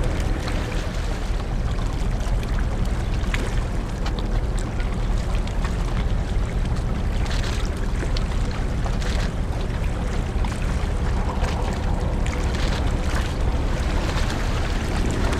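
Large car ferry under way, with the steady low rumble of its engines under a hiss of wind and rushing water.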